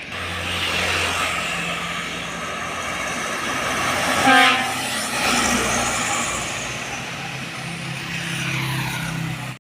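Heavy truck driving past with its engine running. A short horn blast sounds about four seconds in, the loudest moment. The sound cuts off suddenly at the end.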